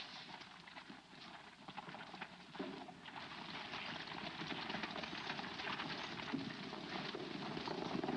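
Horses' hooves galloping, a fast dense clatter that grows louder from about three seconds in as the riders draw near.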